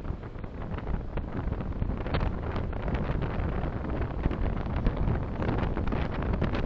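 Road and wind noise from a moving car picked up by a dashcam microphone: a steady low rumble with crackly buffeting that grows louder over the first two seconds or so, then holds.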